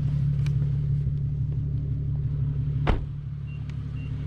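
Infiniti Q50 engine idling steadily, with a sharp click about three seconds in. Three short, evenly spaced beeps from the car's warning chime follow.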